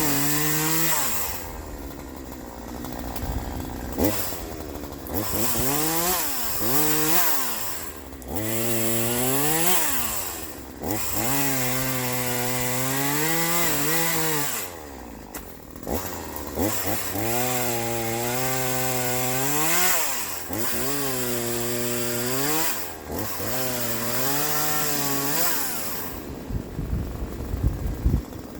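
Troy-Bilt TB4218 42cc two-stroke chainsaw running hard, its pitch sagging and climbing again many times over, with rougher noisy stretches in between.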